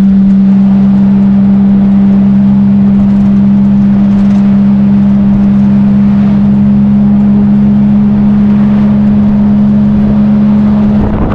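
Boat engine running steadily at constant speed, a loud even drone with no change in pitch.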